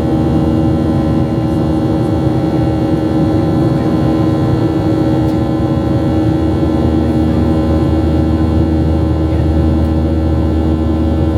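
Steady cabin drone of a Boeing 737-700 in flight: the constant rush of air and engine hum, with several steady tones.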